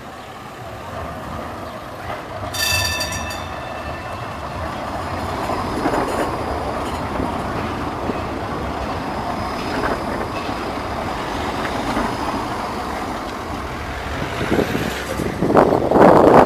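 A tram running on its rails, the rumble building from about five seconds in. About three seconds in there is a brief high ringing tone. Near the end come fast, loud clattering knocks from the wheels on the track.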